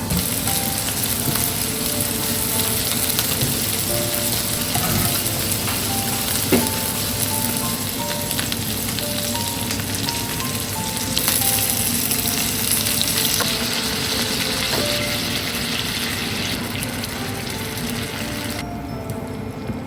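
Food sizzling and frying in a pan, a steady hiss with a single knock about six and a half seconds in; the sizzle drops away near the end. Soft background music plays over it.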